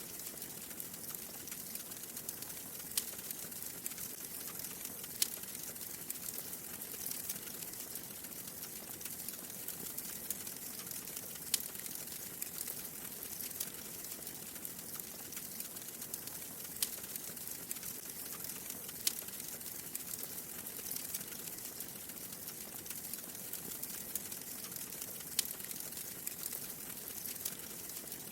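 Wood fire burning in a fireplace: a steady soft crackle with a sharp, louder pop every few seconds, about six in all.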